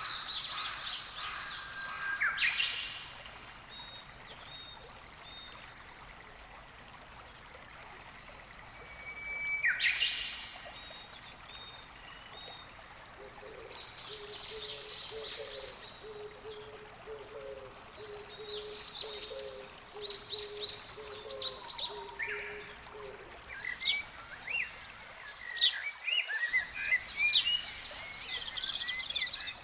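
Wild birds calling in bursts of short, high chirps and calls every few seconds, thickest near the start and in the last few seconds. A low repeated note runs through the middle, over a soft steady wash of water.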